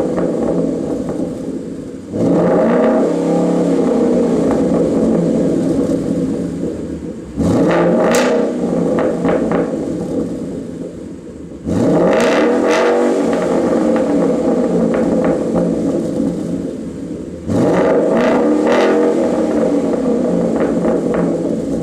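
Ford Mustang GT's 5.0 V8 through a freshly fitted Roush exhaust, revved hard four times. Each rev climbs sharply and then dies away over a few seconds.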